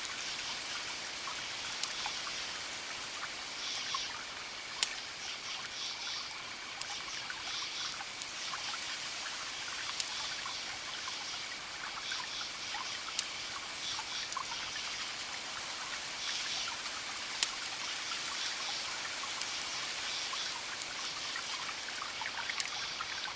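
Campfire crackling, with a few sharp pops standing out, over a steady wash of distant waves. Crickets chirp in repeated short groups above a steady high insect trill.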